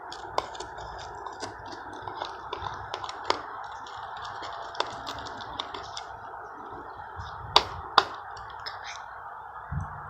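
Irregular small clicks and taps over a steady hiss, with two sharper clicks about half a second apart near the end.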